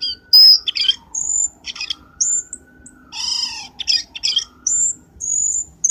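Cucak keling bird calls used as a trapping lure: a rapid, varied series of sharp chirps and short whistled notes, several sliding upward, over fainter slow rising-and-falling whistles.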